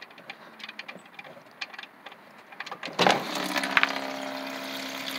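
Hot engine oil draining from the 2019 Jeep Cherokee 3.2 L oil pan into a bucket. At first only faint drips and ticks are heard; about three seconds in the stream hits the bucket and pours steadily, with the rising ring of a vessel filling.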